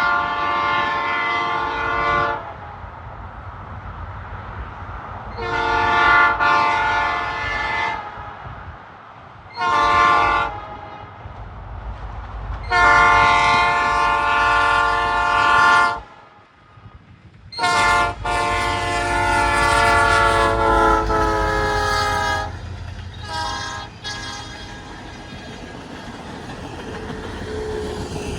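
Alaska Railroad locomotive sounding its multi-note air horn as the train approaches and passes: long, long, short, long, then a fifth long blast whose pitch drops as the locomotive goes by. The low rumble of the train rolling along the track continues under and after the horn.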